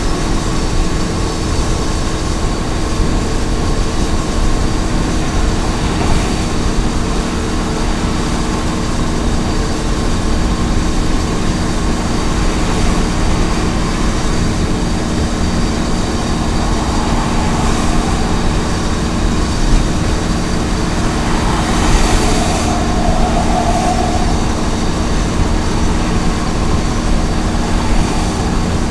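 Small truck cruising at highway speed: a steady engine drone under a constant haze of road noise, with a brief rushing swell a little past the middle.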